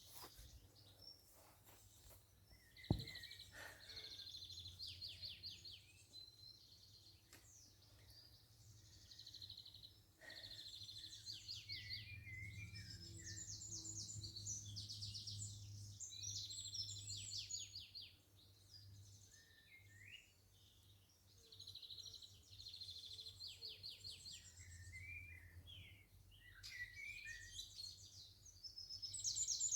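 Garden birds singing: repeated fast trilled phrases and chirps, faint. A single sharp click about three seconds in.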